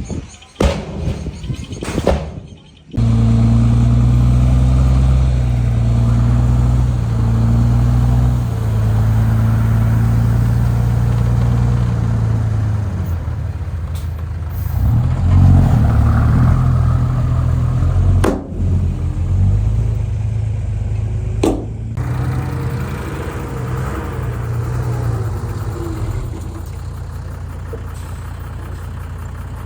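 Heavy-equipment diesel engine running steadily with a low drone, starting abruptly about three seconds in after a few short choppy sounds.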